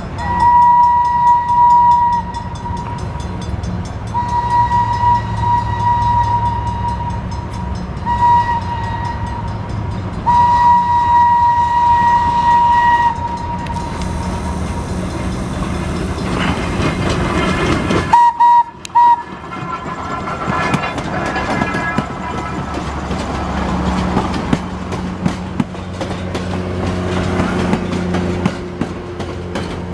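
Locomotive horn sounding the grade-crossing pattern of long, long, short, long, one steady pitch, over the low rumble of the train. A broad hiss follows, then a brief toot about 18 seconds in, and the train keeps rumbling along the rails.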